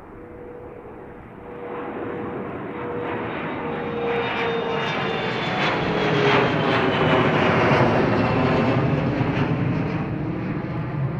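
Airliner taking off, its engines at takeoff power growing louder and staying loud through the second half. A whine over the rumble slowly falls in pitch as the aircraft passes.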